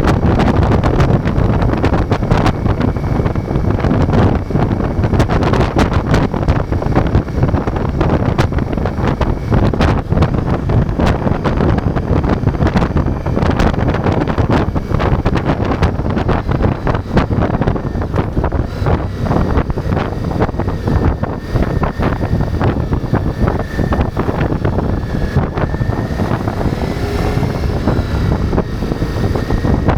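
A Ducati Multistrada V4's 1158 cc V4 engine runs while riding, with wind rushing and buffeting over the action camera microphone. A faint high whine slowly rises in the last ten seconds.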